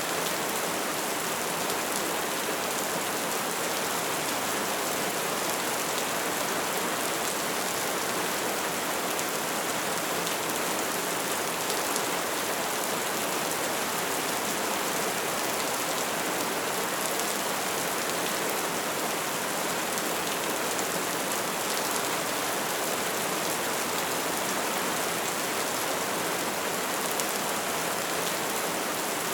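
Wood fire burning steadily, with a constant hiss and dense small crackles and pops.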